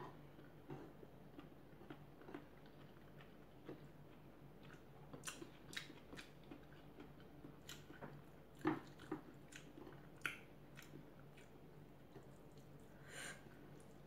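Faint eating sounds: chewing, with scattered soft clicks and smacks from fingers mixing rice and sisig on a plate, a couple of them louder a little past the middle.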